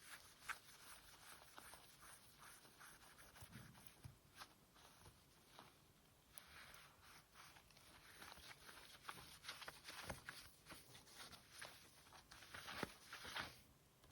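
Scratchy rubbing and small scrapes and clicks on a PS4 Slim's plastic case while it is cleaned by hand. The sound is faint, grows busier toward the end and cuts off sharply near the end.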